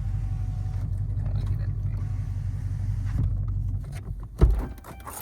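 Car engine idling with a steady low rumble that drops away near the end, followed by a single loud thump.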